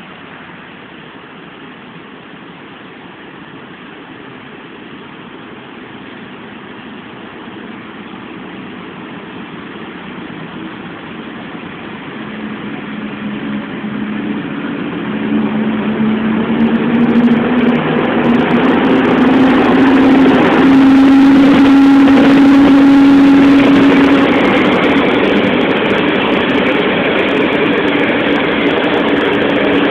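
Passenger train approaching and pulling into a station, growing steadily louder. A low hum rises slightly in pitch as it comes on, and the sound peaks as the locomotive and coaches draw alongside about twenty seconds in.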